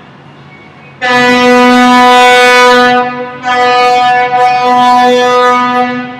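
A ship's horn sounding two long, steady blasts at one pitch. The first starts abruptly about a second in; the second follows after a brief dip and fades near the end.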